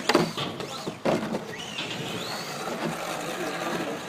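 Electric Traxxas Raptor SVT RC truck running on pavement, its motor whine rising and falling with the throttle. Two sharp knocks come at the start and about a second in.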